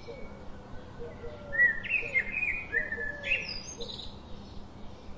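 Birds chirping, with a cluster of quick, high chirps from about a second and a half to four seconds in, over a faint run of lower repeated calls.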